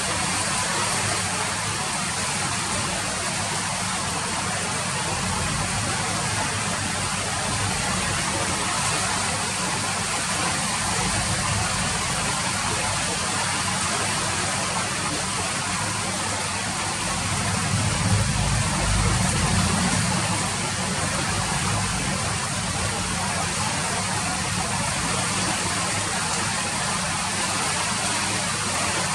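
Steady rain falling, an even hiss of drops. A low rumble swells for a few seconds a little past the middle.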